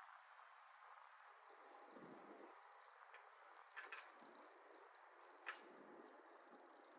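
Near silence: faint hiss with a few soft clicks.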